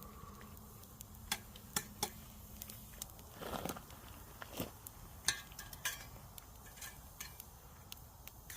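Cooking utensils and cookware being handled: irregular light clicks and knocks, with a soft swish about halfway through.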